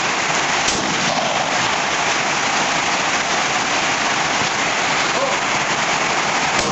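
Steady rain hiss, with a single brief click about two-thirds of a second in.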